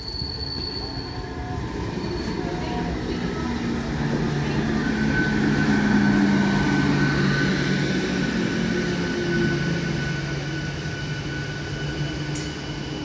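Electric multiple unit (EMU) suburban local train passing close by at speed: a continuous rumble of wheels on rails with steady whining tones over it. The sound grows loudest about halfway through as the coaches go past, then eases a little.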